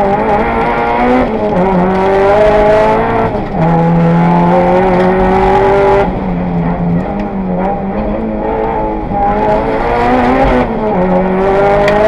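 Mitsubishi Lancer Evolution VII's turbocharged 2.0-litre four-cylinder engine at full race effort, heard from inside the car. It pulls up through the revs, the pitch climbing steadily, then drops back at each gear change or lift, several times over.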